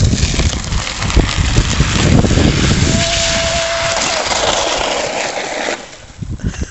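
Loud rushing, scraping noise of someone sliding fast down an icy snow slope, with heavy rumble on the microphone, ending abruptly just before the end. A brief steady whistle-like tone sounds about halfway through.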